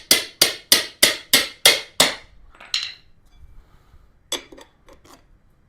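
A hammer striking metal tools in a steady run of sharp, ringing blows about three a second while a motorcycle tire bead is broken. The blows stop after about two and a half seconds, and a few lighter knocks follow near the end.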